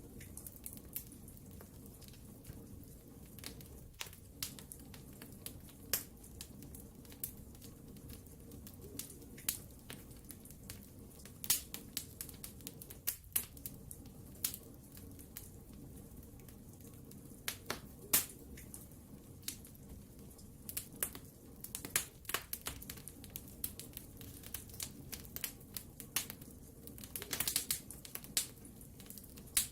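Wood fire crackling in a fireplace: irregular sharp pops and snaps of burning wood over a steady low rumble of the flames, with a quick flurry of pops near the end.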